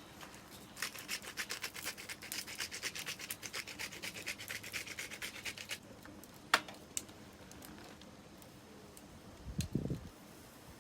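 Rapid rubbing strokes, about ten a second, stop abruptly after some five seconds. A sharp click follows, then a short low thump near the end.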